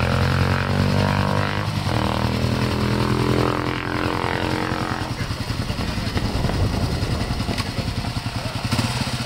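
Motorcycle engine running at raised revs for about five seconds, with a brief dip about two seconds in, then dropping back to a pulsing idle.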